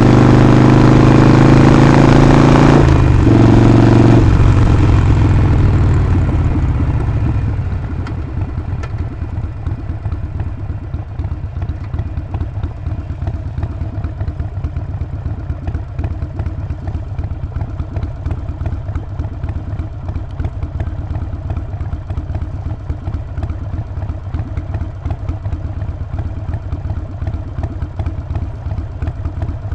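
Harley-Davidson Sportster 48's 1200 cc V-twin pulling hard with rising pitch and a brief dip around a gear change near the start. The throttle then comes off and the engine settles to a steady, quieter, pulsing run at low revs for the rest.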